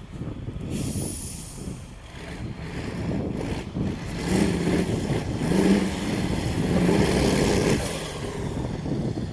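Diesel engine of an off-road trial truck revving under load over a rumble of noise. The engine grows louder from about four seconds in and eases off near the end.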